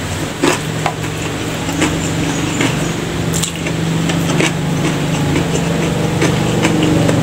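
Close-up mouth sounds of chewing rice and salted fish eaten by hand: wet smacking with scattered sharp clicks. Under it a steady low engine hum that grows louder toward the end.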